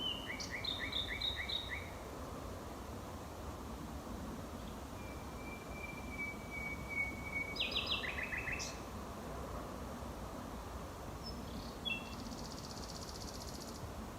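Male nightingale singing his territorial song in separate phrases with pauses between them. The song opens with a run of about six quick repeated notes, has a long steady whistle and a quick burst of notes in the middle, and ends with a fast rattling trill.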